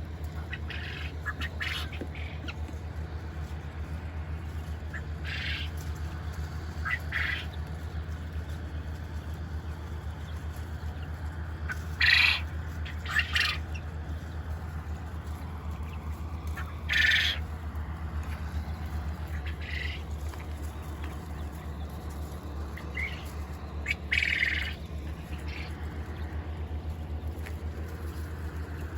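Quail calling: scattered short, harsh calls, a few louder ones standing out, over a steady low hum.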